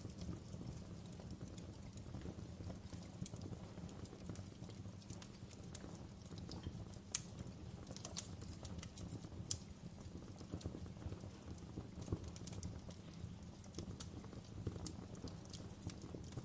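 Fire in a fireplace crackling: irregular sharp pops and snaps over a steady low rumble of the burning, with one louder pop about seven seconds in.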